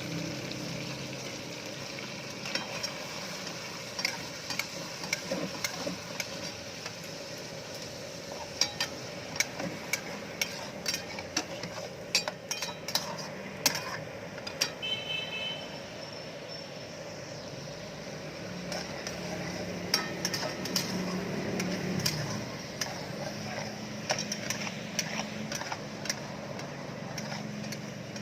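Food sizzling in a frying pan as it is stirred with a metal utensil, with frequent sharp clinks of metal against the pan over a steady hiss.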